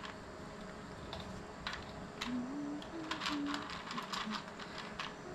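Clicking and rattling of small plastic parts being handled and pushed together, busiest in the second half, with a few short low notes in the middle.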